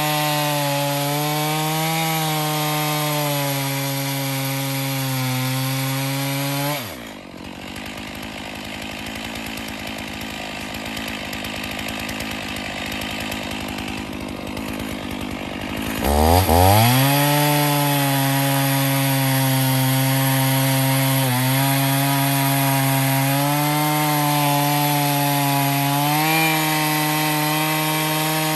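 Stihl MS461 chainsaw in an Alaskan mill, running at full throttle while ripping a cedar log into slabs. About seven seconds in the throttle is let off and the engine drops to idle for about nine seconds, then revs sharply back up and keeps cutting steadily.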